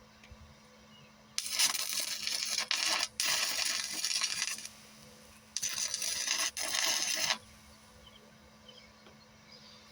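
Stick-welding arc crackling on steel in two runs, one of about three seconds with a brief break, then one of about two seconds, each starting and stopping abruptly.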